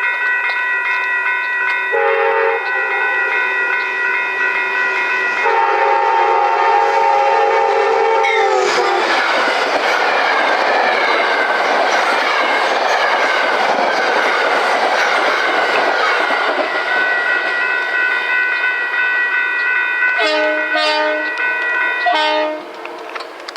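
A passing train sounds its horn in several blasts, and the chord drops in pitch as it goes by. About eight seconds of rushing, clattering wheel and car noise follow as the train passes. Two more short horn blasts come near the end, over a steady ringing.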